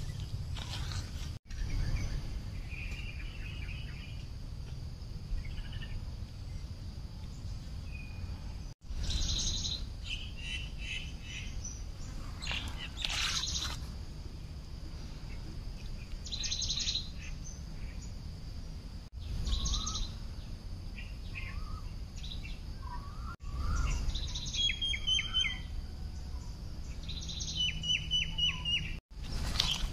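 Birds chirping and calling: short chirps and whistles scattered through, with quick runs of rapidly repeated notes near the end, over a steady low rumble.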